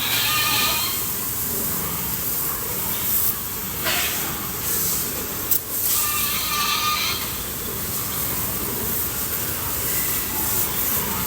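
Water spraying steadily from a hose, washing down pigs, with two short pig calls: one at the start and one about six seconds in.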